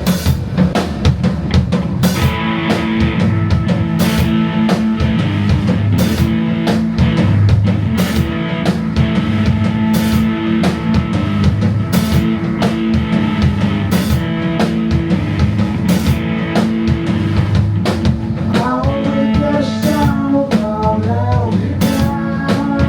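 Psychedelic rock band playing live: a drum kit keeps a steady beat under bass and electric guitar, with a wavering melodic line coming in near the end.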